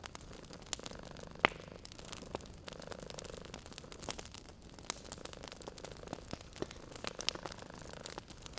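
Wood fire crackling, with scattered sharp pops and one louder pop about one and a half seconds in, over a cat's soft purring that swells and fades with its breaths.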